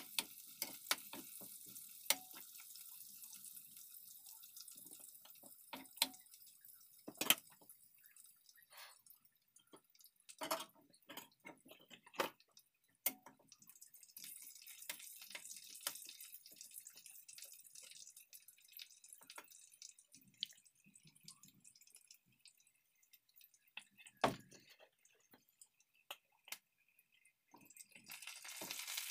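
Garlic, onion and chili flakes frying quietly in a metal wok, with a metal ladle scraping and clinking against the wok at irregular intervals. Near the end the sizzle grows louder as browned chicken wings go back in.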